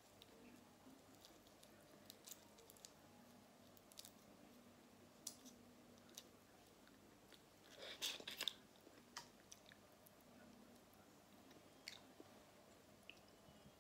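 Faint chewing with scattered soft mouth clicks, and a louder cluster of crunchy clicks about eight seconds in.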